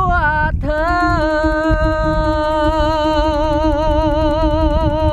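A solo singer in a Northern Thai so (saw) folk song holding out a long note with a steady wavering vibrato, after a short break and upward slide about half a second in. A steady lower drone note and plucked accompaniment sound beneath it.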